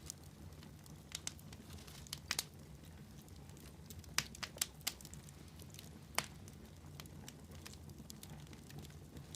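Faint crackling of a wood fire in a fireplace: irregular sharp pops, with a cluster of them about four seconds in and a single louder one around six seconds, over a low steady hum.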